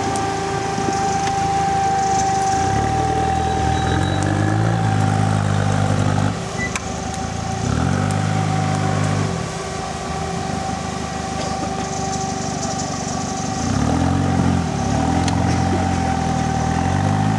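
Off-road 4x4's engine revving in three long bursts, the pitch rising and falling with each, as it claws up a steep rutted slope under load, over a steady high-pitched whine.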